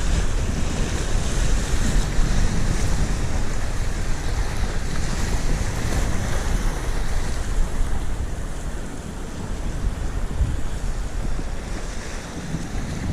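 Wind buffeting the microphone over the wash of sea waves against a rocky sea wall, in uneven gusts that ease off a little twice near the end.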